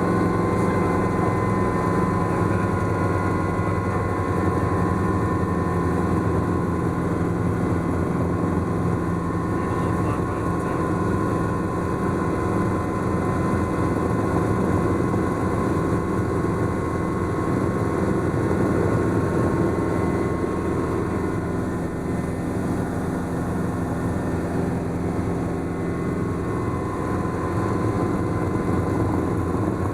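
Schweizer S-300CBi light helicopter running steadily: the four-cylinder Lycoming piston engine and rotors make a continuous drone with several steady tones.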